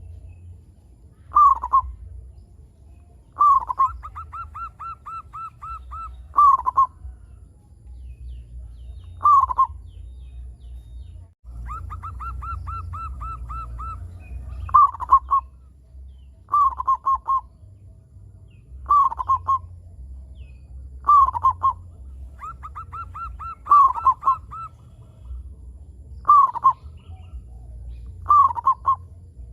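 Zebra doves (perkutut) cooing: short falling coo phrases every two or three seconds, with three longer runs of fast, even, repeated notes, over a low steady rumble.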